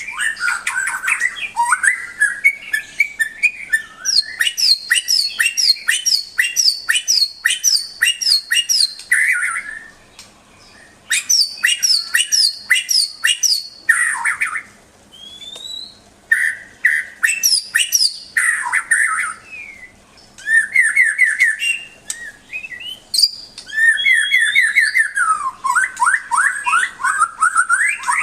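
White-rumped shama (murai batu) singing: loud phrases of rapid repeated notes, some high and whistled, some lower and slurred, separated by brief pauses.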